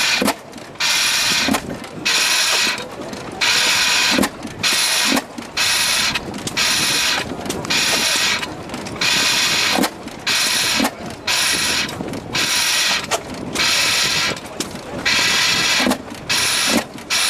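A running engine giving a loud burst of noise about once a second, each burst lasting roughly half a second, in a steady repeating rhythm.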